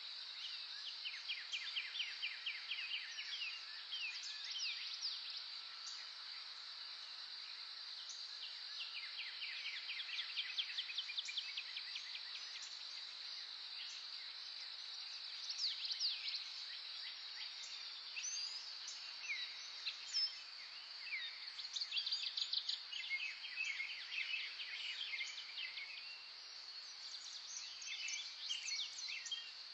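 Several wild birds singing over a continuous high-pitched insect drone. The birds give rapid trills of short repeated notes and quick down-slurred whistles, some songs overlapping. The loudest bursts come about 2, 10, 16 and 22 seconds in.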